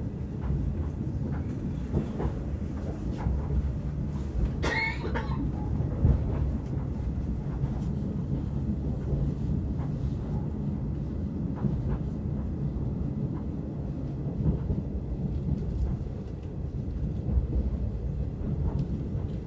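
Steady low rumble of a train heard from inside a carriage, with faint ticks. About five seconds in comes one short cough-like sound.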